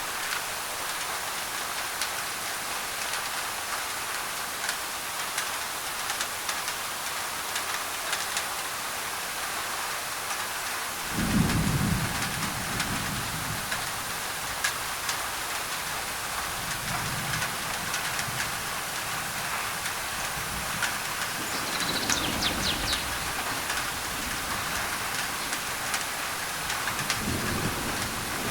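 Rain drumming on a thin tin roof, a steady hiss with scattered drop ticks, layered with white noise. A low rumble of thunder starts suddenly a little over a third of the way in and is the loudest thing, with fainter rumbles later.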